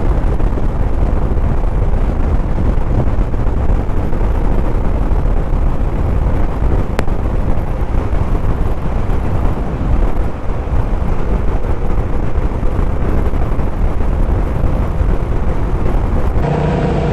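Suzuki motorcycle under way on the highway: a steady, loud rush of wind and low engine and road rumble at the rider's microphone. Music comes in near the end.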